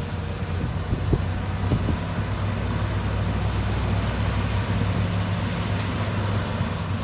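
Heavy construction machine's engine running steadily at a low, even pitch, with a few short knocks about one and two seconds in.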